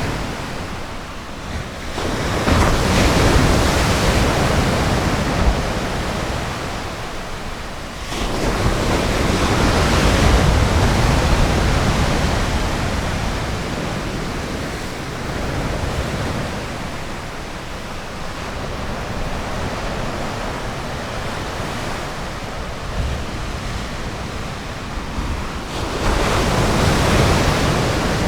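Ocean surf washing onto a beach: a continuous rush of water that swells three times as waves break, about two seconds in, about eight seconds in and near the end, with a steadier wash in between.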